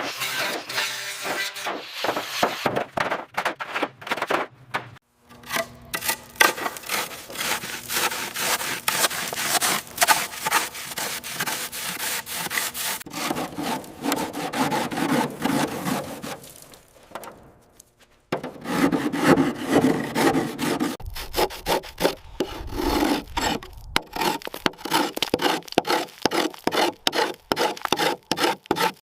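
Rapid back-and-forth scraping strokes of a hand tool, like sawing or filing, broken by two short pauses, one about five seconds in and one a little past halfway.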